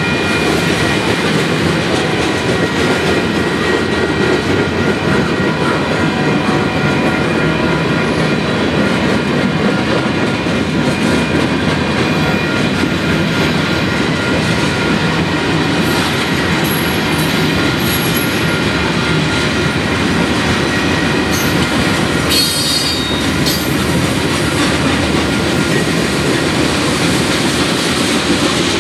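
Freight cars of a Union Pacific manifest train rolling past: a loud continuous rumble of steel wheels on rail, with thin high wheel squeal in the first half. A short sharp clatter comes about three-quarters of the way through.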